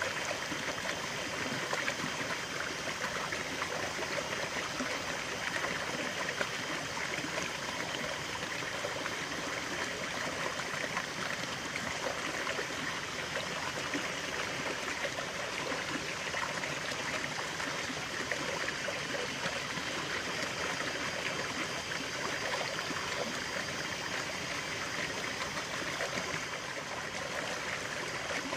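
Stream water running and trickling over rocks, a steady splashing babble without pause.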